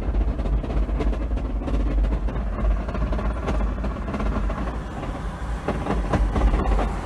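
A vehicle on the move: a heavy, steady low rumble with a busy rattle over it.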